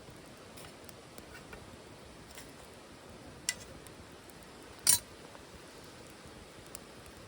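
Wood fire burning in a titanium wood stove: a faint steady hiss with a few sharp crackles and pops, the loudest a single sharp pop about five seconds in.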